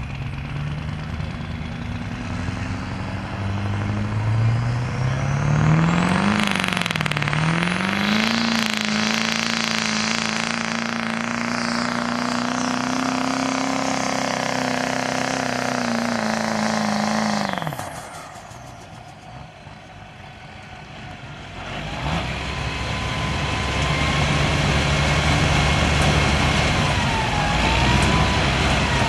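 Diesel truck engine pulling a sled under load: it revs up over several seconds, holds high and steady for about ten seconds, then drops off suddenly as the pull ends. After a short lull, another engine runs at a lower pitch.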